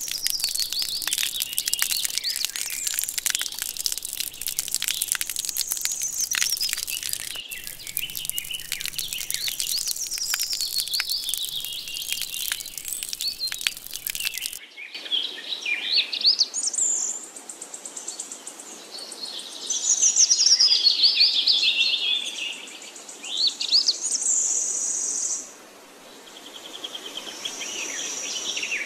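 Birds singing: high whistled phrases that sweep up and down. In the first half they sit over a steady high hiss with many small crackles; after a sudden change about halfway through, the song comes through clearer, in separate phrases.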